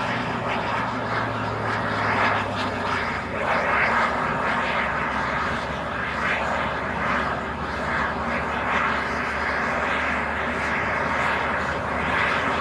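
Airbus A320neo's CFM LEAP-1A turbofan engines running steadily, with an even rushing noise and a low hum that fades out about three seconds in.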